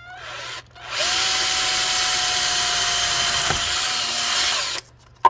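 Power drill running: a brief blip at the start, then about a second in a steady run of nearly four seconds at one constant pitch, with a quick wind-down near the end.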